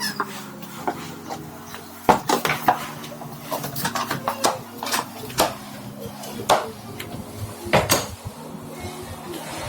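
Kitchenware being handled: irregular clinks and knocks of dishes, pots and utensils set down and moved about, a dozen or so sharp strikes.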